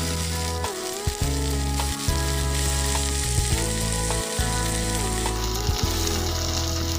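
Food sizzling as it fries in a pan, a steady hiss, under background music.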